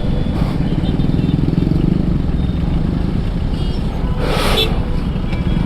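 Hero Splendor motorcycle's single-cylinder engine running steadily under way in traffic. A brief hiss cuts in about four seconds in.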